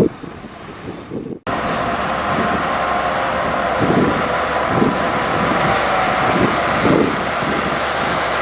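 Heavy earthmoving machinery running, with uneven low surges of engine noise and a faint steady whine, under strong wind noise on the microphone. The sound changes abruptly about a second and a half in.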